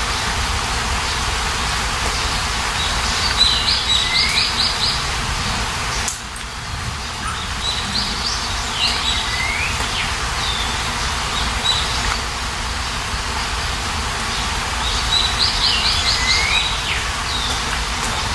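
Steady rain hiss with a songbird singing over it, repeating the same short phrase of a rising note and a quick trill about every six seconds.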